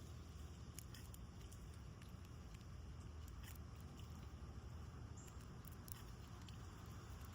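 Squirrel feeding on sunflower seeds, with faint, scattered small clicks of seed shells being handled and cracked, over a steady low hum.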